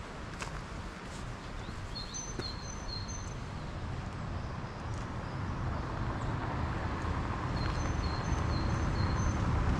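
A bird calls two series of short, high repeated notes, three about two seconds in and four near the end, over a low rumbling noise that grows steadily louder.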